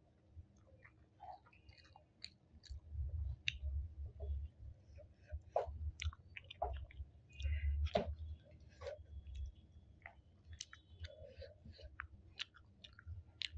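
Close-up chewing and wet mouth clicks of a person eating soft sticky rice and chicken curry by hand, with many small irregular clicks and soft low thuds.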